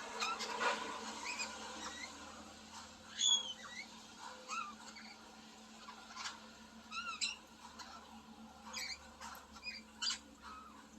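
Australian king parrot giving short, high squeaky chirps and piping whistle notes at irregular intervals, the loudest about three seconds in.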